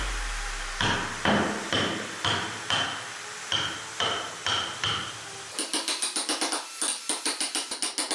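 Hammer or mallet blows on a carving chisel cutting into wood, about two a second, each with a short metallic ring. Near the end they change to quicker, lighter taps.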